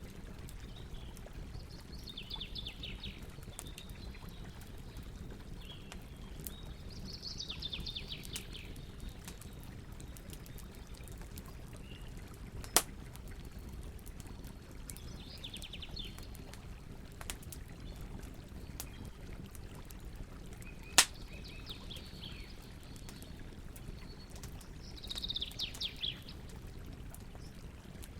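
Campfire crackling with frequent small clicks and two loud pops, one about halfway through and one about three quarters in, over a low steady rumble of burning wood. Songbirds sing short trilled phrases every few seconds.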